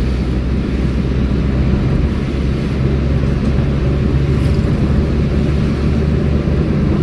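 Car engine and road noise from a moving car: a steady low drone with no change in pace.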